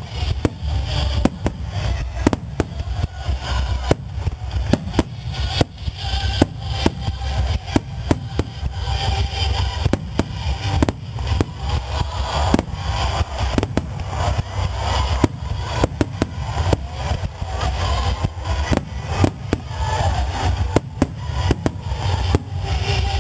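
Aerial firework shells bursting in rapid, irregular succession, many booms and cracks overlapping over a continuous deep rumble.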